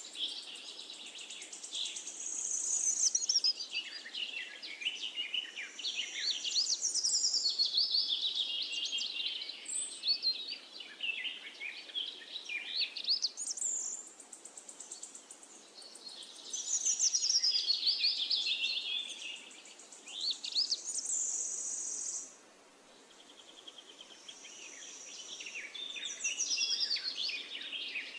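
Birds singing and chirping, a steady stream of quick high whistled notes sliding up and down, with short high trills, going briefly quieter a little past two-thirds of the way through.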